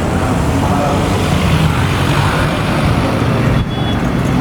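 Loud classic car engine running, with a brief dip in level about three and a half seconds in.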